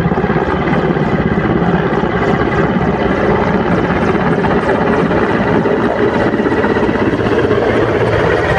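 Helicopter rotor running steadily, a loud, fast, even chopping.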